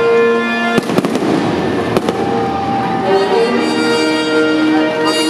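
Fireworks bursting: sharp bangs about a second in and again about two seconds in, with a dense crackle between them, over orchestral music with strings.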